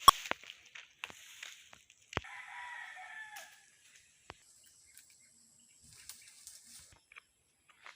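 A rooster crowing once, starting about two seconds in and lasting a little over a second, the call dropping slightly at the end. A sharp click near the start is the loudest sound, with another click just before the crow.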